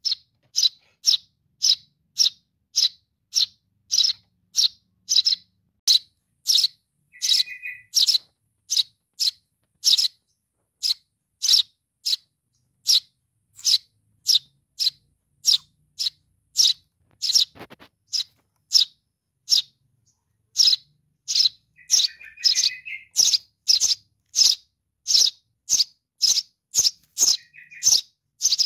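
Sparrow chick calling for its parent: short, high chirps repeated steadily about twice a second. Three times a lower, buzzier call cuts in among them.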